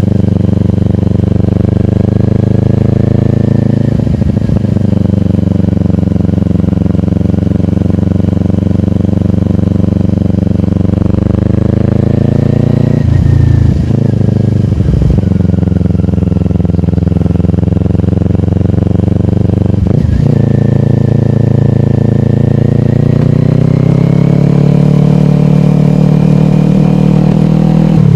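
Kawasaki Ninja 400 parallel-twin engine with a slip-on exhaust, running under way. Its note rises and falls with the throttle, and it drops out briefly about four times, each time climbing again afterwards, as at gear changes.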